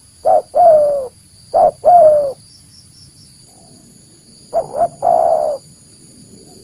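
Spotted dove cooing its lure call, three phrases in all. The first two come close together, each a short note and then a longer falling coo. After a pause of about two seconds the third phrase opens with two quick notes before its long coo.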